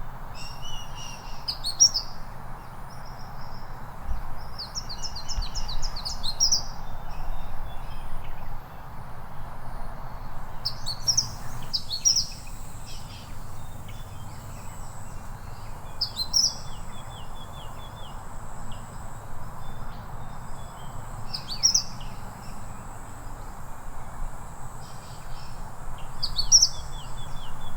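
Mistletoebird calling: thin, high chirping notes every couple of seconds, some strung into quick rapid runs, over a steady background hiss. A thin steady high tone comes in about eleven seconds in.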